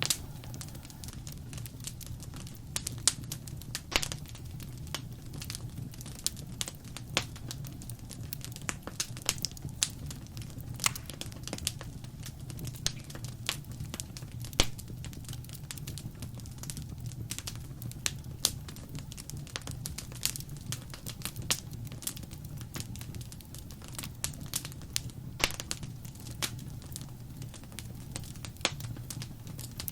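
Fireplace fire crackling, with frequent sharp, irregular pops and snaps over a steady low rumble.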